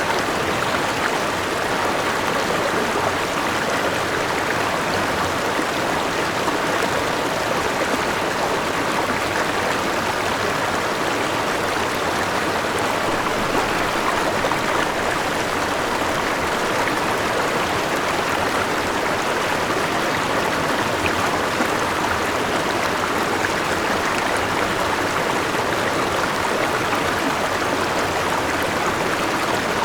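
Forest river rushing and splashing over a small waterfall: a steady, even sound of flowing water without any pause or change.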